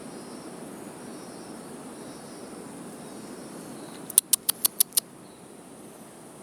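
Steady high-pitched buzz of rainforest insects, with a quick run of six sharp ticks a little past the middle.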